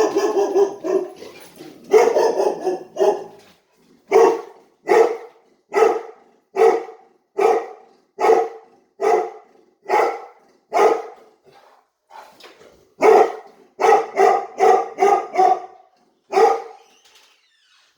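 Pet dogs barking over and over, about one bark a second, with a quicker run of barks later on.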